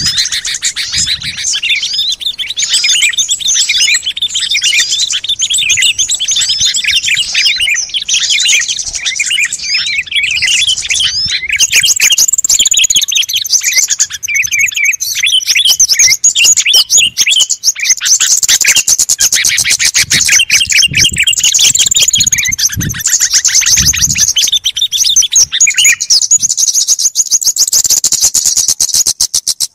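Small songbirds chirping and twittering in a dense, overlapping chorus of rapid high trills and repeated notes: a bird-luring call recording meant to draw wild small birds in.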